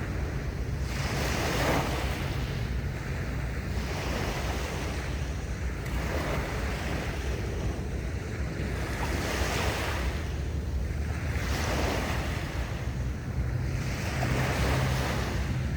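Sea waves breaking and washing in, a rushing surge about every two to three seconds, over a steady low rumble of wind on the microphone.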